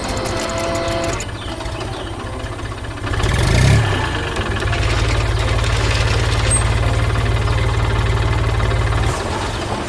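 Heavy construction-machine engine running steadily, with a louder surge about three and a half seconds in, easing off about nine seconds in.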